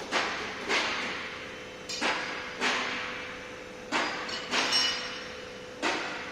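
Hammer blows on metal, about eight strikes, mostly in pairs, each ringing out briefly.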